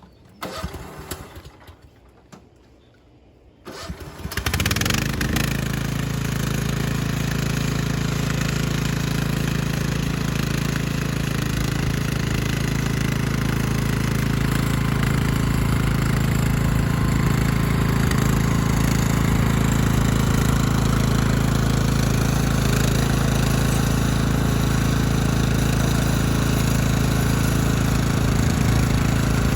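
An engine starts about four seconds in, after a few short knocks, and then runs steadily at an even speed.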